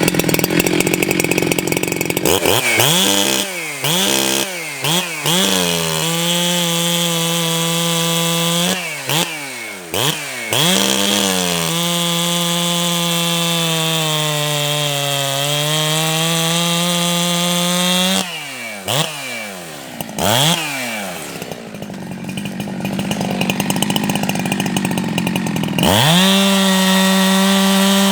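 Ported Jonsered 2165 two-stroke chainsaw blipped through several quick revs, then held at high revs cutting soft pine, its pitch sagging under the load about halfway through. After more short revs and a rougher stretch, it runs steadily at high revs again near the end.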